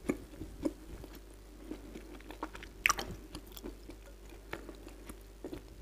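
A mouthful of Kyrgyz edible clay being chewed: soft crunches and mouth clicks, with one sharper crunch about three seconds in. The fatty clay turns to a creamy, butter-like mass as it is chewed.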